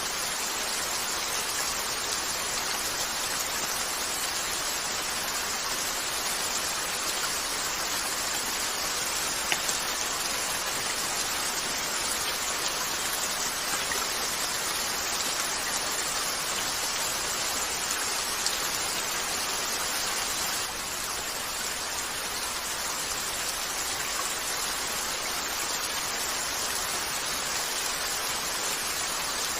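Steady rain falling on a window, an even hiss of drops, with two sharp pops from a crackling fireplace.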